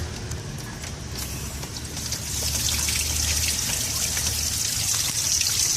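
Water spraying from a garden hose. It swells in about two seconds in and then runs as a steady hiss.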